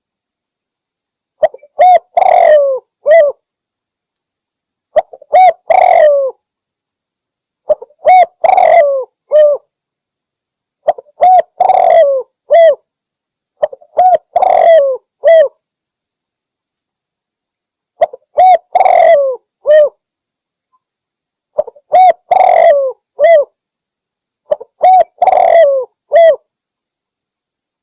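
Spotted dove (Javan 'derkuku') cooing loudly: eight phrases of several short, low, bending coos each, one phrase every three to four seconds with silence between.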